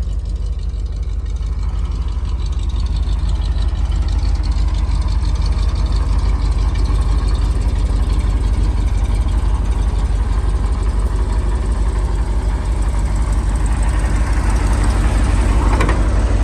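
1972 Chevrolet C60 truck's 366 big-block V8 idling steadily with a low, even rumble.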